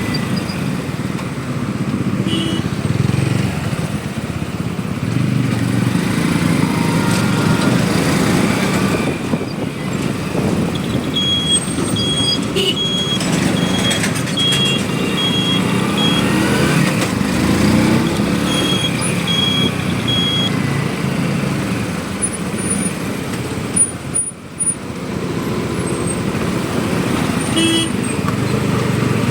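A small motorcycle engine running steadily while riding, with road and wind noise. About halfway through comes a run of short high beeps, repeated evenly for a few seconds and then again briefly.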